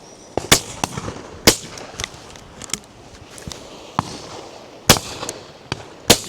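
Shotgun shots: four loud, close reports, about half a second in, at one and a half seconds, near five seconds and just before the end, each with a short echoing tail. Fainter, more distant shots fall in between.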